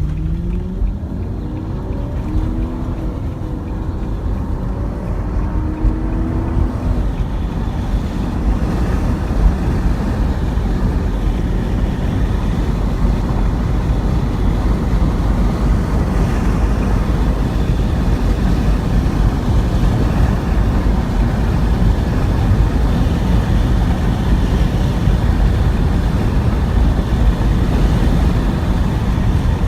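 A vehicle driving. Its engine rises in pitch as it speeds up in the first several seconds, then gives way to a steady, loud rumble of road and wind noise at speed.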